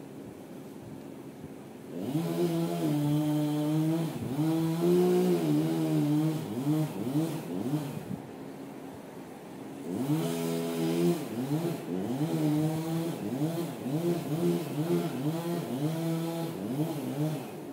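Gasoline engine revving up and down again and again under load, starting about two seconds in, dropping back briefly midway, then revving repeatedly again.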